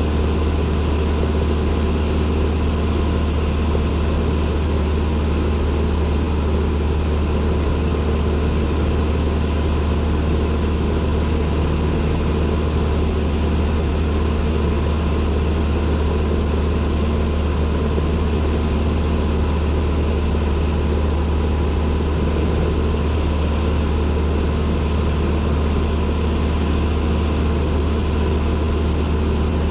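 Cessna 172N's four-cylinder Lycoming piston engine and propeller running with a steady, unchanging drone.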